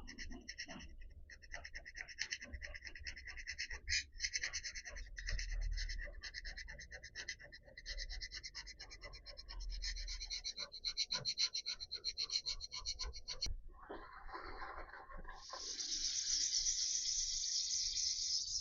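Hand scraper being pushed across the cast-iron cross-slide of a lathe in quick, short rasping strokes, taking down a high spot to bed a tool post. The scraper bites little metal. Near the end the strokes give way to a steadier, brighter rasp lasting a few seconds.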